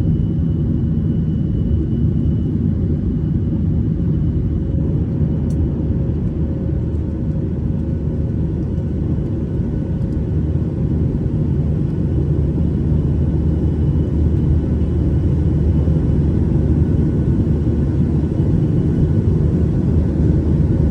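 Steady cabin noise inside a Boeing 737-800 in flight: a low rumble of its CFM56-7B engines and airflow, with a faint steady hum above it, growing slightly louder in the last few seconds.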